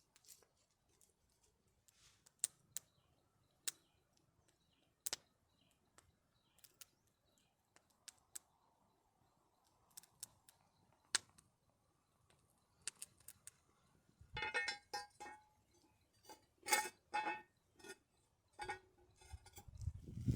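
Sparse light clicks and taps, then a busier run of clinks with a short ringing tone, like small hard objects knocking together, over the last six seconds.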